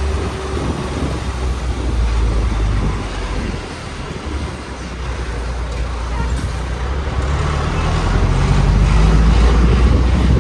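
Heavy road-vehicle engine running with a deep, steady rumble and road noise; about three-quarters of the way through its revs climb and it grows louder.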